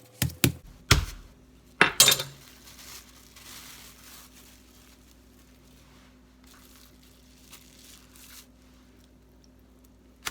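Raw chicken breast being pounded thin under plastic wrap: about five sharp blows in the first two seconds, then a fainter crinkling of the wrap.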